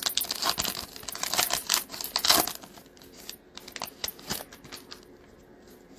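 Foil trading-card pack wrapper being torn open and crinkled for about two and a half seconds, followed by a few lighter rustles and clicks as the cards are handled.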